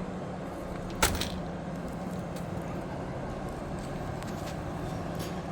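A train's engine running steadily at a low pitch as the train moves slowly, with one sharp click about a second in.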